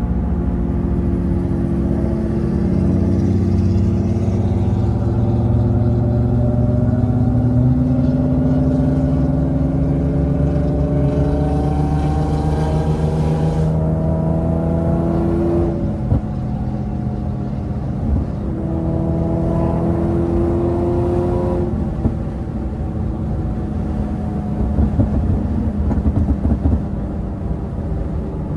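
Infiniti G37's VQ37 V6 through a loud Motordyne exhaust, pulling steadily up through the revs for about fifteen seconds, with a brief break at a gear change. It pulls again, then the throttle lifts a little after twenty seconds and the engine runs on at lower, uneven revs with a few sharp pops near the end.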